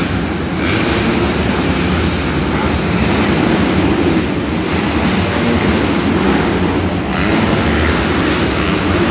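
Steady, loud rumble of dirt bikes running on the track.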